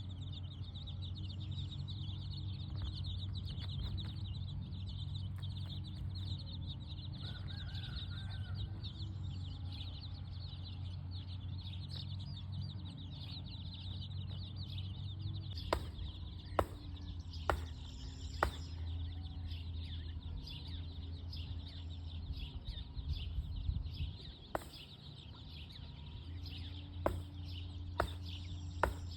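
Domestic chickens clucking in a farmyard over a steady high-pitched chirring and a low hum. A handful of sharp clicks come in the second half.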